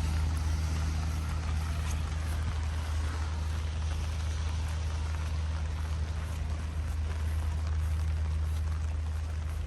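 Steady rain falling around the street, a constant hiss, with a continuous low hum underneath.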